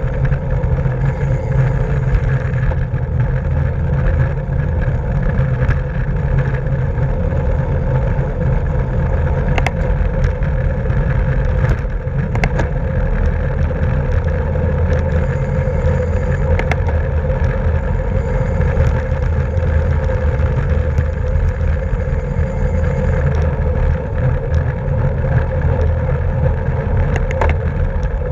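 Wind rushing over the microphone with the steady rolling noise of a bicycle at racing speed, and a few sharp clicks along the way.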